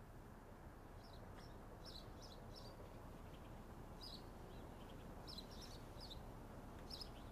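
Near silence: faint room tone with scattered, faint bird chirps now and then.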